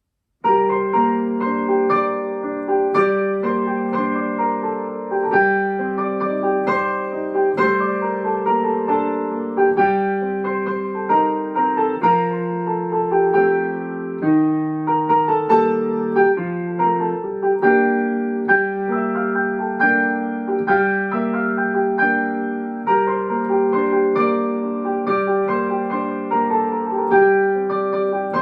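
Instrumental introduction played on a keyboard: a melody of struck notes over held low notes, starting about half a second in.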